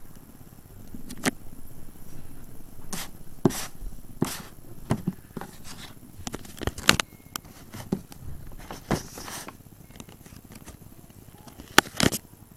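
Handling noise: irregular taps, clicks and short rustles, as of small objects being picked up and set down close to the microphone, sharpest a little before the middle and twice near the end.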